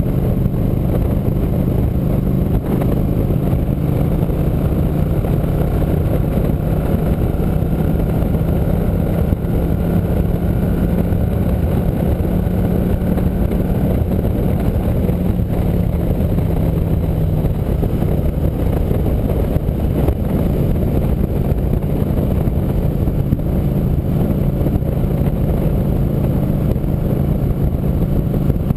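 Motorcycle engine running steadily under way. Its note rises slowly in pitch, then falls back partway through as the speed eases.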